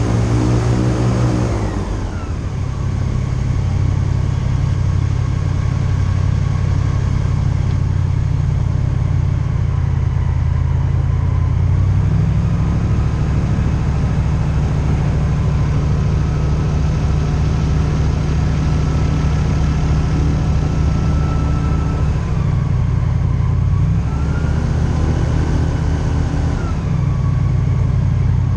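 Airboat engine and propeller running loud and steady under way, the engine note dropping about two seconds in and rising and falling again near the end as the throttle changes.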